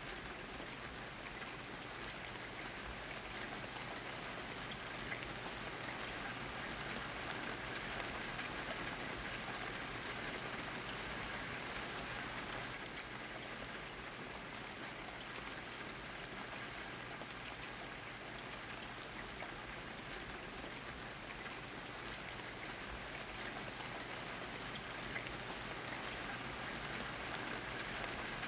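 Steady rain falling: an even hiss with scattered drop ticks throughout.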